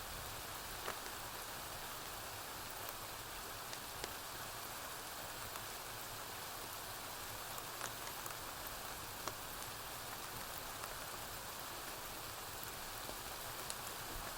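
Steady rainfall hissing, with a few scattered sharp clicks.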